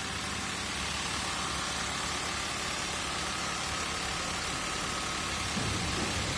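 Car engine idling steadily under a steady hiss while the air-conditioning system is charged with R-134a refrigerant.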